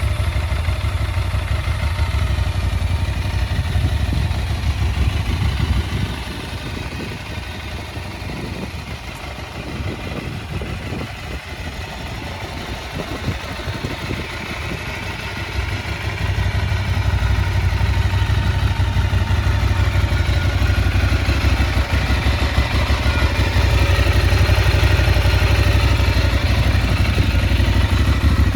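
Aprilia Tuareg 660's parallel-twin engine idling steadily. It grows quieter for about ten seconds in the middle, then louder again.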